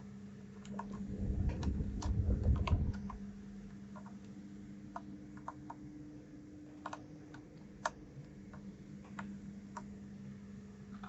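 Mechanical keyboard keys clicking: scattered single clicks at an irregular pace, with a low rumble of handling between about one and three seconds in and a steady low hum underneath.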